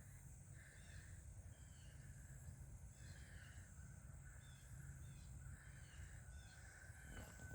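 Faint outdoor ambience with small birds chirping softly and repeatedly in the distance.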